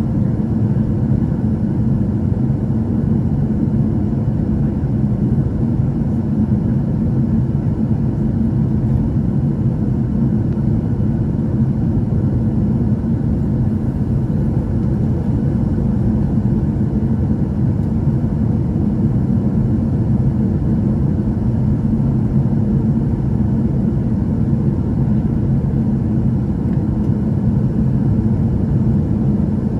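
Steady low rumble inside a Boeing 737-800's cabin on final approach: engine and airflow noise, with faint steady tones running above it.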